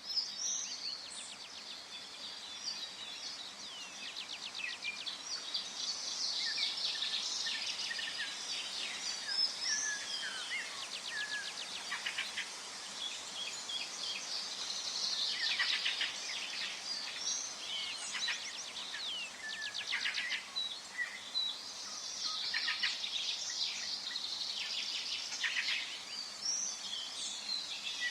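Forest birdsong: several songbirds singing and calling at once, with chirps, short whistled slides and rapid trills over a faint steady background hiss.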